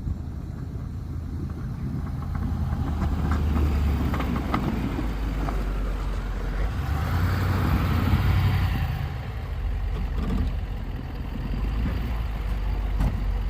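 Snow-plow truck's engine running steadily with a low drone, growing louder and softer as it works and loudest about eight seconds in, with a couple of faint knocks.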